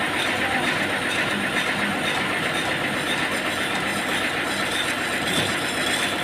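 An engine-driven machine running steadily, its noise even throughout.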